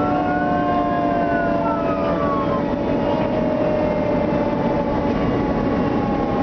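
Fire engine running under way with its siren sounding: the siren's pitch rises, peaks about a second in and falls away, over the steady drone of the engine and road.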